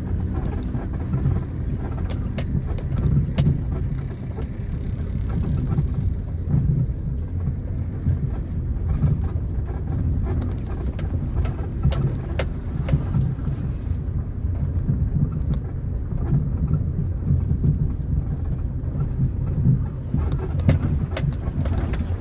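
A car being driven along a road: a steady low rumble of engine and tyres, with scattered sharp ticks or knocks over it.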